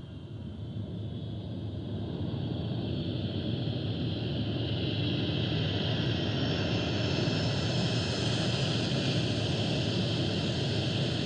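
Boeing 747 jet engine noise, growing louder over the first several seconds as the airliner approaches, then holding steady with a strong hiss.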